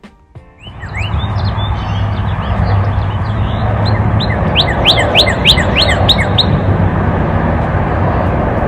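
Wild birds chirping outdoors, with a quick run of short, sharp repeated chirps about halfway through, over a steady rush of outdoor noise with a low rumble.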